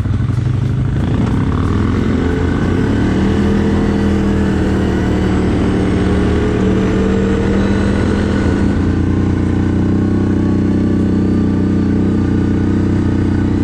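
CFMoto 1000 ATV engine running under way. Its note rises gently through the first half, then shifts to a steady lower hum about nine seconds in.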